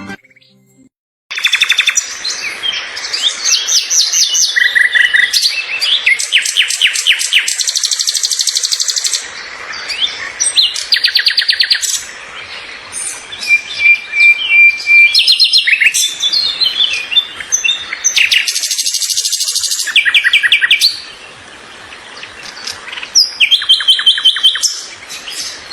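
Small songbirds singing: rapid high chirps, fast trills and short whistled notes in repeated phrases, starting about a second in after a brief silence. The background changes abruptly every few seconds, as where clips are cut together.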